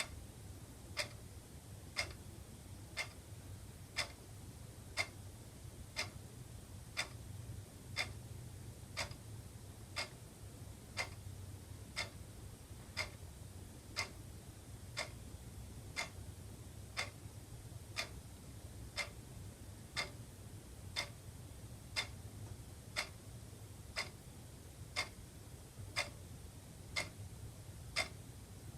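Wall clock ticking steadily, one sharp tick each second, over a faint steady low hum.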